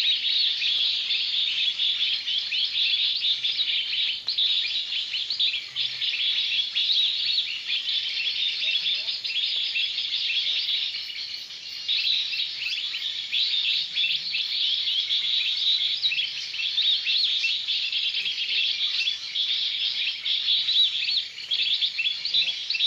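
A dense, unbroken chorus of many small birds chirping, all high-pitched and overlapping.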